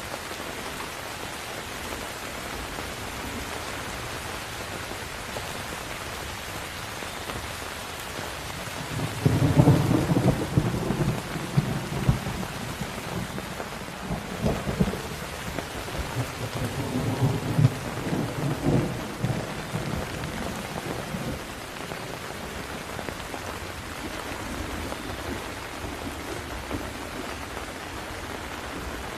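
Steady heavy rain with a roll of thunder: about a third of the way in the thunder breaks in loudest, then rumbles on in uneven swells for some ten seconds before fading back under the rain.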